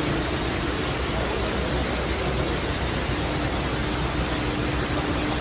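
Steady rushing noise with a faint steady hum: the general background din inside a large shopping mall.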